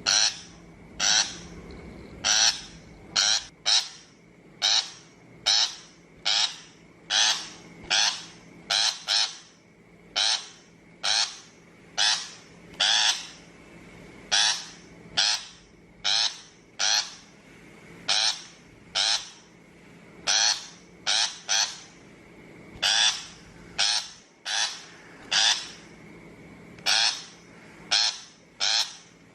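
Shrike giving a long series of harsh, rasping calls, about one to two a second with brief irregular pauses, as used to lure birds to a trap.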